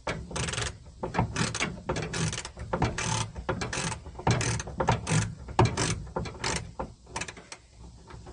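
Long-handled socket ratchet clicking in repeated short, uneven bursts as it is swung back and forth on a 7/16 door-hinge bolt.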